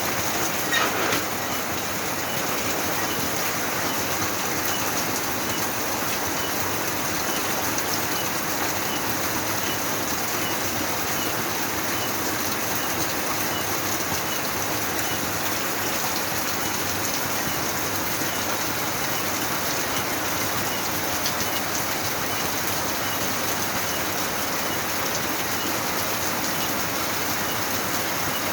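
Steady heavy rain falling at night, an even hiss of rain on surfaces, with crickets chirping faintly in a regular rhythm underneath. A brief louder sound about a second in.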